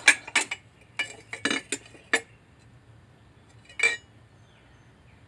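Dishware knocking and clinking together as pieces are handled and sorted: a quick run of sharp clinks in the first two seconds, then one more a little before four seconds in.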